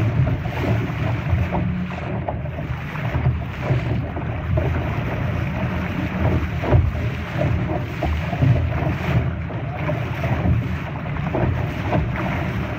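Wind rushing over the microphone and lake water splashing and slapping against the hull of a Laser sailing dinghy under way, with many small splashes throughout.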